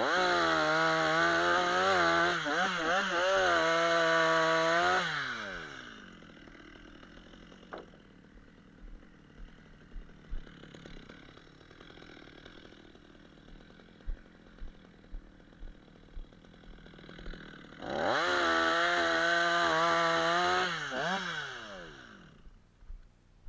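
Chainsaw running at full throttle for about five seconds, its pitch wavering and dipping, then falling back to a quiet idle. It revs up again for about three seconds near the end and drops back to idle.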